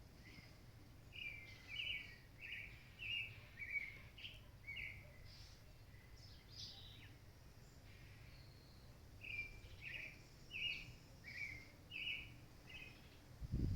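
A bird singing two phrases of about seven short, quick, repeated chirping notes each, with a pause between them, while fainter higher calls sound behind them over a steady low background rumble.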